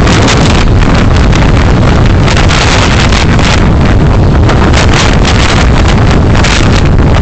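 Loud wind buffeting on the microphone of a moving vehicle, over a steady rumble of road and engine noise.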